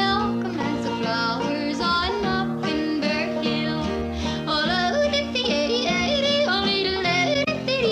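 Country trio of two acoustic guitars and a banjo playing, with a woman singing lead in a wavering, yodel-like melody.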